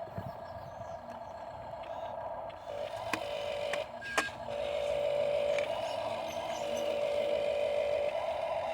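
Dump truck running with a steady whine that steps slightly up and down in pitch a few times, over a low rumble, with a few sharp clicks.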